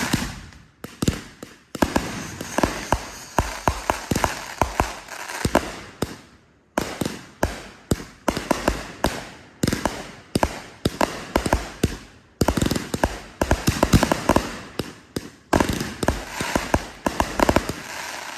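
Fireworks crackling and popping in rapid runs of sharp bangs, several volleys with short lulls between them.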